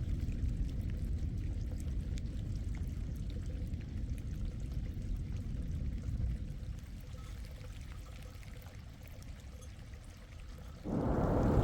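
Low, steady rushing of storm rain and running water that slowly fades. Near the end a much louder burst of heavy rain and thunder cuts in suddenly.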